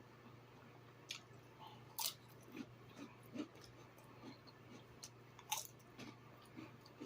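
A person chewing food close to the microphone, with irregular crunches and wet mouth smacks.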